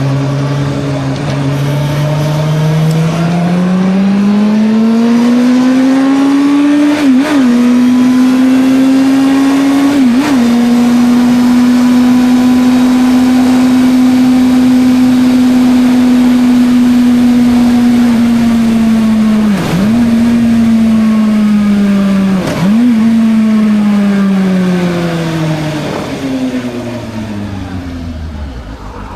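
Suzuki GSR 600's inline-four engine pulling through the gears: the revs climb, dip sharply at two gear changes, hold steady at a cruise, then dip twice more and wind down as the bike slows, with wind rush throughout.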